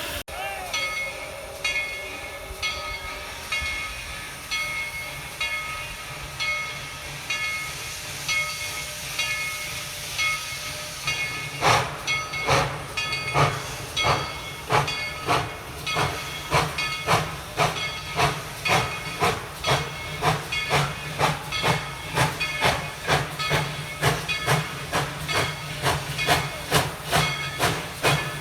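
Narrow-gauge steam locomotive pulling away: a steady hiss of steam under a repeating ringing that sounds like its bell, then, about twelve seconds in, sharp exhaust chuffs begin and come gradually faster as it picks up speed.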